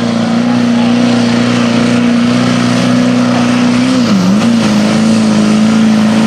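Pulling truck's engine held at high revs under full throttle while dragging the weight sled, one steady pitched note that sags briefly about four seconds in and comes straight back up.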